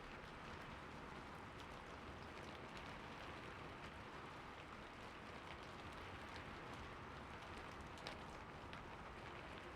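Heavy rain falling steadily, an even hiss with scattered sharper drop ticks and one louder tap about eight seconds in.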